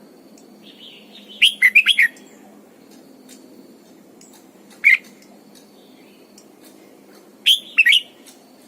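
Red-whiskered bulbul singing loud, short phrases: a quick run of several chirping notes about a second and a half in, one single note near the middle, and another short phrase near the end.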